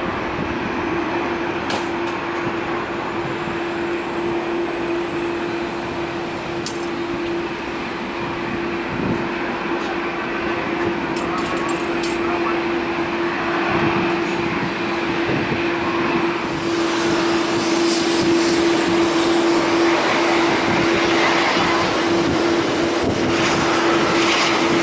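Airliner jet engines running with a steady hum over a broad rumble, growing louder and hissier about two-thirds of the way in.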